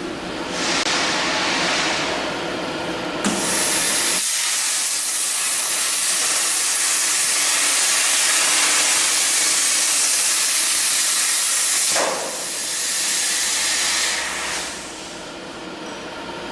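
CNC plasma cutter, fed by a Hypertherm Powermax 105A, hissing loudly and steadily as the arc cuts. A brighter, higher hiss comes in about three seconds in, the low rumble drops away a second later, and the sound dips briefly near the twelfth second and grows quieter toward the end.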